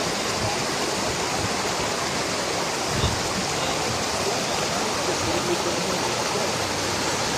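Steady rushing of flowing water, with a faint low knock about three seconds in.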